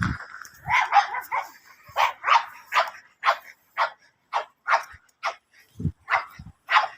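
Puppy yapping: a run of about ten short, high-pitched barks, roughly two a second, after a jumble of yelps in the first couple of seconds.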